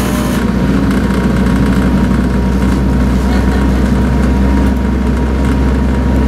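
Diesel train running, heard from inside the passenger coach: a steady low engine drone with rumble from the running gear.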